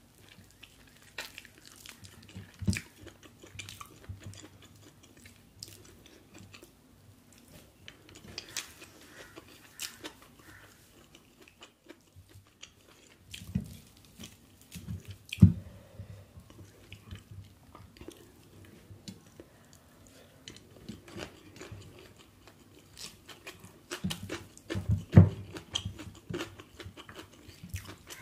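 Close-miked chewing and mouth sounds of chicken biryani eaten by hand, with fingers gathering rice and chicken on the plate. Many small clicks run through it, with a few dull thumps, the loudest about 15 and 25 seconds in.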